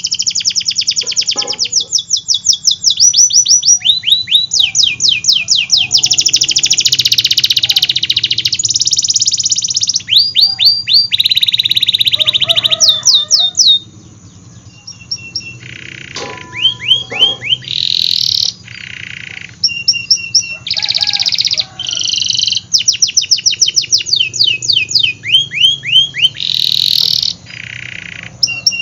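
Domestic canary singing a long, varied song: fast rolling trills of rapidly repeated notes, runs of quick falling whistles and held buzzy phrases, with a brief lull about halfway through.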